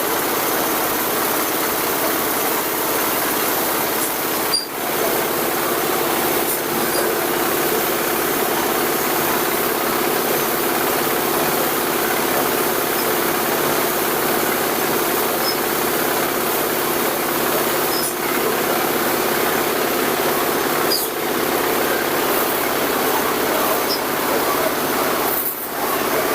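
Diesel-powered silage baler running steadily, its single-cylinder ZS1100 diesel engine going with the clatter of the baling machinery. Loudness dips briefly about five seconds in and again near the end, and a steady hum joins about five seconds in.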